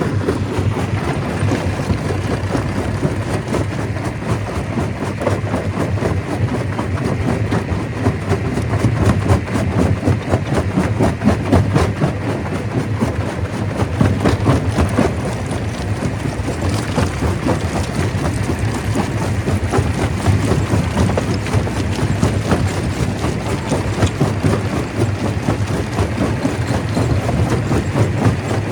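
Stone crusher running: a steady, heavy machine rumble with dense, continuous rattling and knocking of rock.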